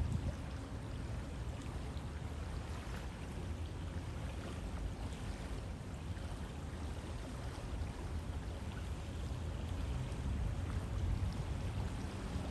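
River water flowing: a steady, even rushing with a deep low rumble underneath.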